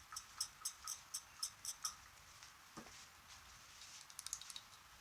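Faint, light ticks, about four a second for the first two seconds and then a quick flurry near the end, with one soft knock in between: a brush knocking against the inside of a small glass while thinned acrylic paint is stirred.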